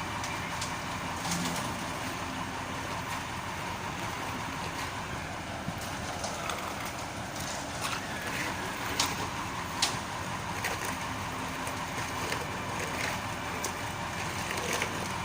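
Mitsubishi Fuso 8DC9 V8 diesel engine of a mixer truck running steadily, with a few scattered light clicks and knocks.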